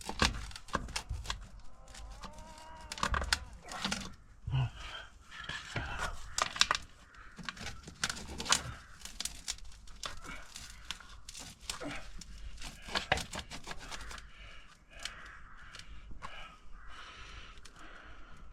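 Irregular scraping, crunching and knocking of hand digging and of plastic drain fittings being handled.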